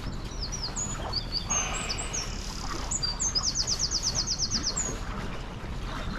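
A songbird singing: several short high chirps, then a fast trill of about a dozen rapid repeated notes near the middle, over a steady low background rush.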